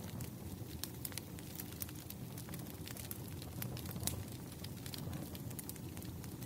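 Wood fire crackling in a fireplace: a steady low rumble with many small irregular pops and snaps, one slightly louder pop about four seconds in.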